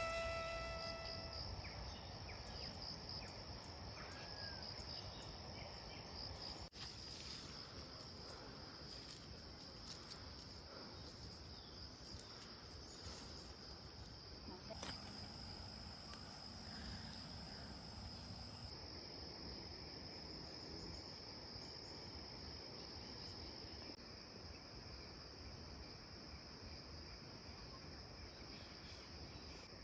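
Insects trilling in one steady, faint, high-pitched drone, with a little soft outdoor background noise.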